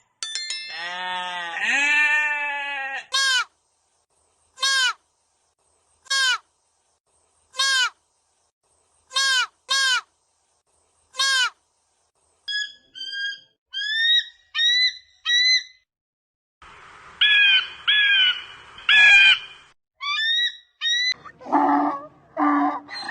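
A run of separate animal calls: a bleating call at the start, then a series of single short bird chirps about a second and a half apart with silence between them, followed by varied bird calls.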